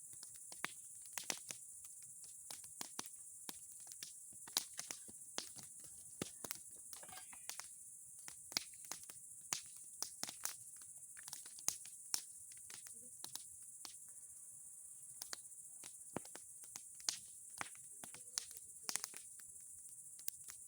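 Wood bonfire of old boards and pine cones crackling, with irregular sharp pops and snaps.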